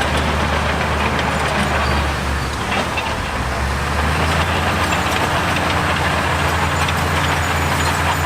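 Diesel engine of heavy earthmoving machinery running steadily, a low hum with engine noise over it, easing off slightly about two seconds in and picking back up around four seconds.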